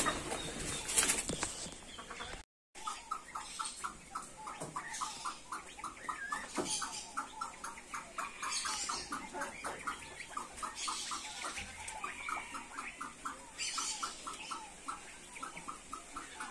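Birds in an aviary: after a short break about two and a half seconds in, a long, even run of short repeated calls, several a second, with a few brief rustles over it.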